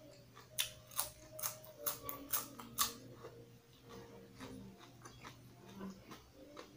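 Close-up chewing of crisp raw leafy greens: about seven sharp crunches in the first three seconds, then softer, quieter chewing, over a faint steady hum.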